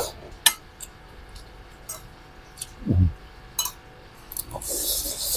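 Eating at a plate: a few sharp clicks of cutlery against the dish, a low thump about three seconds in, and a short hissy noise near the end.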